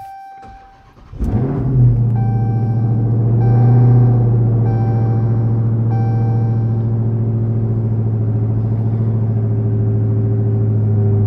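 Dodge Charger SRT Hellcat's supercharged 6.2-litre Hemi V8 cold-started, heard from inside the cabin: it fires about a second in, flares up and settles into a steady idle. A short beep repeats about every second and a quarter during the first six seconds.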